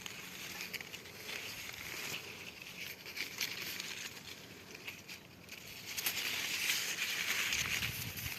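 Soft rustling and crinkling of leaves with scattered faint clicks, growing louder about six seconds in.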